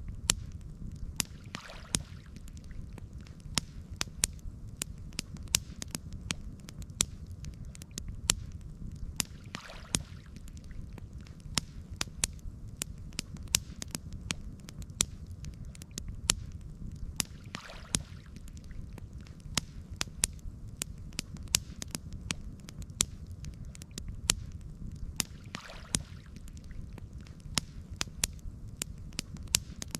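Campfire crackling, with sharp pops and snaps scattered irregularly over a low steady rumble. A soft swish comes back about every eight seconds.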